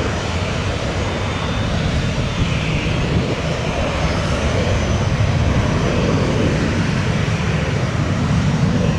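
Jet aircraft engines running steadily at the airport, mixed with a heavy, uneven low rumble of wind on the microphone.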